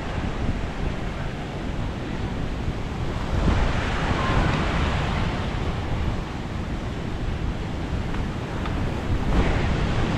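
Sea waves breaking and washing on a shingle-and-sand beach, with wind buffeting the microphone, swelling as a wave breaks about three and a half seconds in and again near the end.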